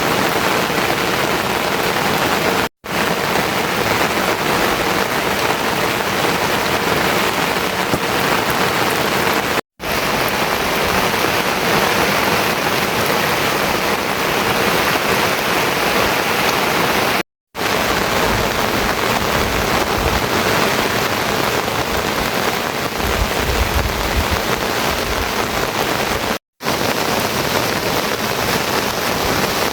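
Steady, loud rain falling and splashing on surfaces, cut off for a split second four times where the footage is spliced. A low rumble comes and goes in the middle stretch.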